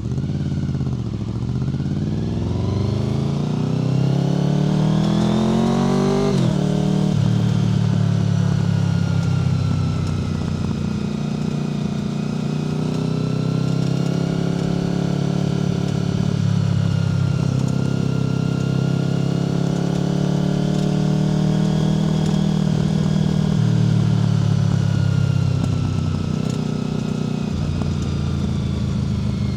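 Honda VFR800 FI's V4 engine through a Black Widow aftermarket exhaust, pulling hard with pitch rising for several seconds, then an upshift about six seconds in. After the shift it runs at a fairly steady cruise, rising and easing off gently.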